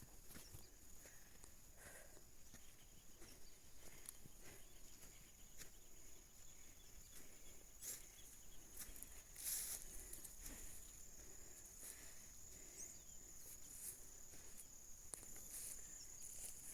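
Faint rural outdoor ambience: a steady high-pitched insect trill, with scattered soft rustles and clicks and one louder rustle about nine and a half seconds in.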